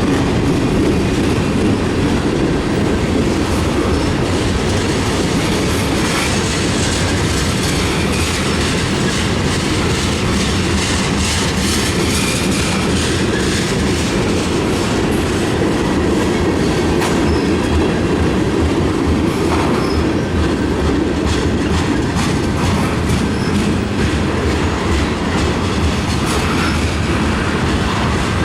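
Freight cars of a mixed freight train rolling past, a steady rumble with wheels clicking over the rail joints.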